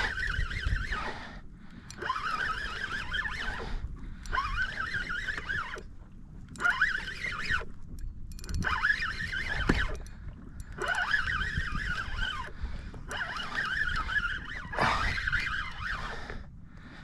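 Fishing reel being cranked to bring a fish up from deep water, its gears whirring in repeated spurts of a second or so with short pauses between, as the rod is pumped and line is taken in.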